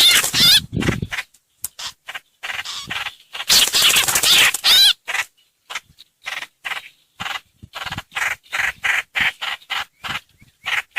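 Trao trảo (hoành hoạch) bird calls played as a lure recording: quick runs of short, harsh notes, with a dense, loud chattering stretch about three to five seconds in.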